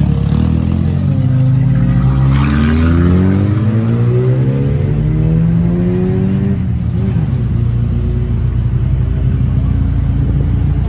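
Car engine accelerating hard, its pitch rising steadily for about five seconds, then settling into a steady low rumble.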